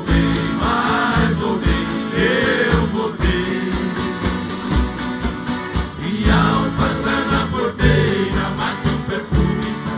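Live música caipira: strummed and plucked guitars over a steady bass beat, with singing voices carrying the melody.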